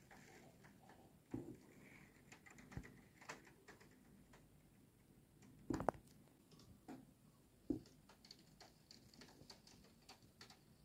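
Faint, irregular tapping of raindrops striking a window and its sill, with a few louder taps among the light ones over a quiet background.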